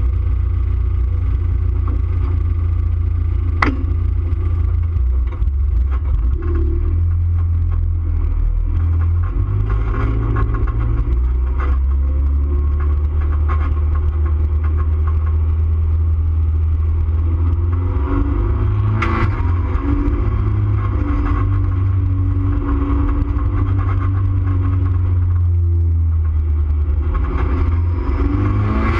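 Race car engine running at steady, low revs, heard from inside the stripped, roll-caged cabin as the car drives slowly off; a low, even rumble with rattles from the bare interior and two sharp knocks, one about four seconds in and one about nineteen seconds in.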